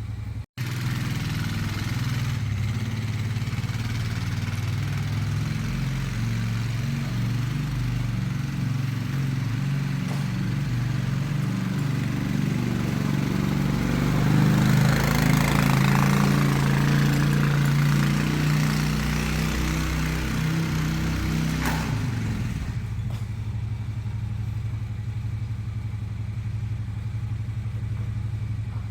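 An engine running steadily, picking up speed and getting louder about halfway through, then dropping back to its earlier steady running about eight seconds later.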